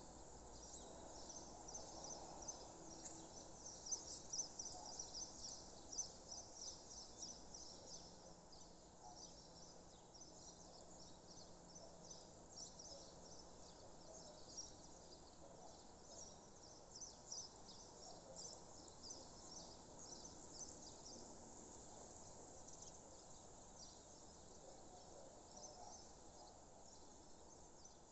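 Faint dawn countryside ambience: birds chirping in rapid, high twittering runs, thickest in the first half and thinning later, over a soft steady hiss.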